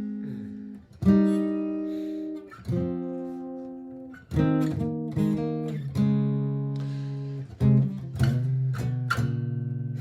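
Martin GPCPA4 steel-string acoustic guitar playing chords: each is struck sharply and left to ring and fade before the next, about eight in all.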